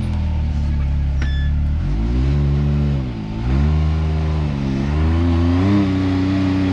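Side-by-side UTV engine revving up and down in repeated bursts as the throttle is worked on and off, working up a steep rock ledge. A short sharp click is heard about a second in.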